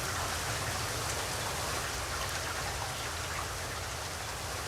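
Recorded rain sound effect played as a seamless loop: a steady patter of rain with no break in it.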